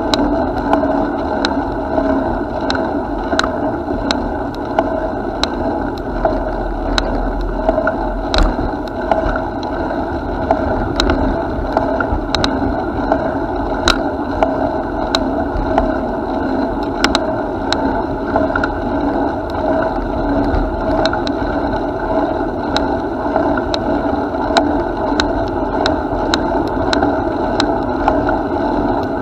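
Bicycle riding along a path, heard from the moving bike: a steady rush of tyre and wind noise with sharp clicks and rattles every second or so.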